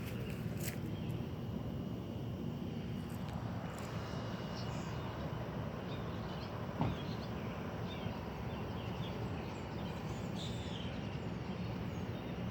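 Faint, scattered high bird chirps over a steady low background rumble, with one short knock about seven seconds in.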